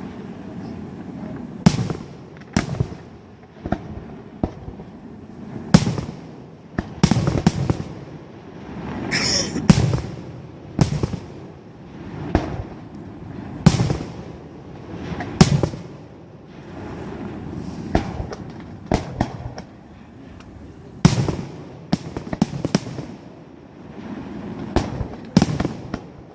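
Fireworks display: shells bursting in sharp bangs every second or two, with a rumbling echo between them and a rising whistle about nine seconds in.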